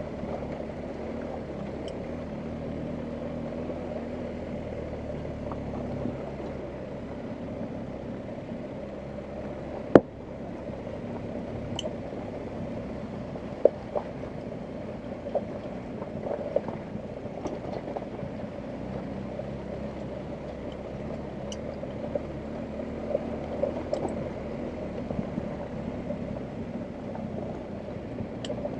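BMW R1250GS Adventure's boxer-twin engine running at low revs off-road, with scattered sharp knocks and clicks over it, the loudest about ten seconds in.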